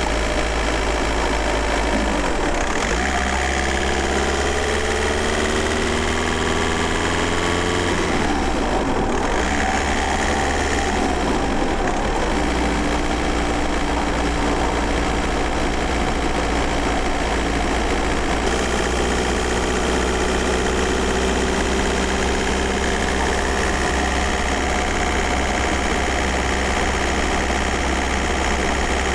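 Volkswagen Golf Mk4 4Motion's 1.9 TDI four-cylinder turbodiesel running while driving, heard from inside the cabin. Its pitch rises slowly, breaks and changes twice about 9 and 12 seconds in, then holds steady and climbs gently again.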